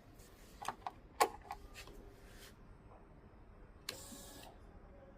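Several light clicks and a rattle, the loudest about a second in, then a brief whirring hiss near four seconds in: a vehicle's key and switches being worked ahead of a cold start.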